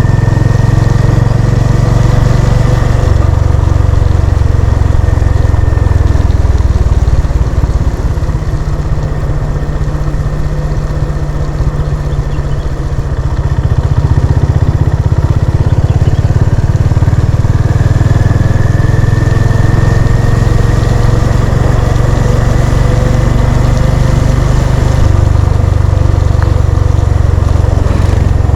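Honda CB350 RS's air-cooled single-cylinder engine running on the move. The sound eases off for a few seconds near the middle, then comes back up.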